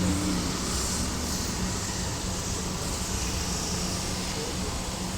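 Motorcycle engine running steadily at a constant low speed, with no revving.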